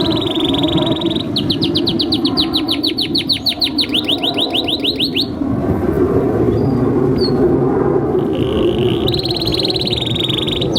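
Domestic canary singing long, rapid trills of repeated notes: a buzzing trill, then a run of quick upward-sweeping notes several a second. The song breaks off about halfway through for a few seconds and resumes with another steady trill near the end, over a constant low background rumble.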